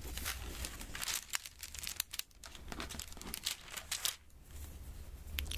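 Plastic crinkling and sticky crackling from handling a diamond-painting canvas and its materials, in irregular bursts of short crackles.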